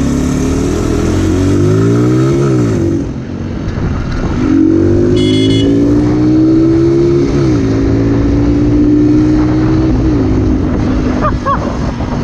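A motorcycle engine accelerating through the gears: its pitch climbs, then drops sharply at each upshift, about three times. A brief high-pitched tone sounds about five seconds in.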